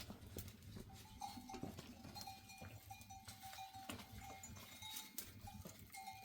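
Faint sounds of a flock of sheep and goats: short, thin calls repeating through the middle, with scattered clicks.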